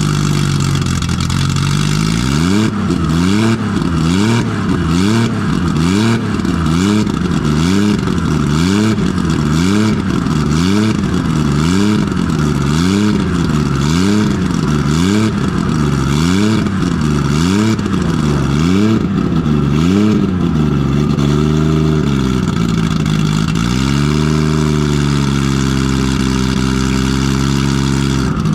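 Nissan RB20 straight-six running on all six cylinders without a proper exhaust, loud. After a couple of seconds at a steady speed it is revved up and down about once a second, over and over, then held at a steadier higher speed with a brief dip near the end.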